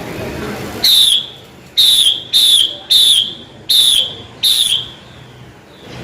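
A female Chinese hwamei (hoạ mi) calls with six loud, short whistled notes, each dropping slightly in pitch, over a low background rumble.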